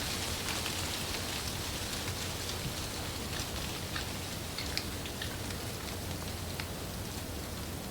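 Wind blowing through leaves: a steady rustling hiss with many small, scattered ticks and taps from the leaves.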